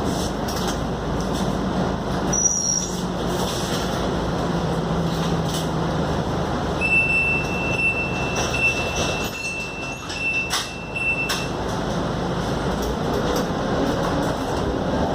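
Interior of a Scania K280UD double-decker bus on the move: steady engine hum and road noise, with scattered rattles and clicks from the body. A thin high whine comes in about seven seconds in and cuts off about four seconds later.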